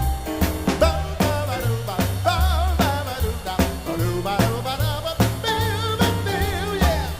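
Small big band playing an upbeat swing-style song: a drum kit and bass keep a steady beat, and a melody line with vibrato plays over them.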